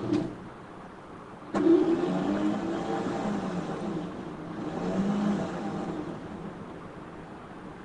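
A sharp click, then about a second and a half in an engine starts up suddenly and revs, its pitch wandering up and down for several seconds before it eases off and gets quieter near the end. The engine is likely a pickup truck's.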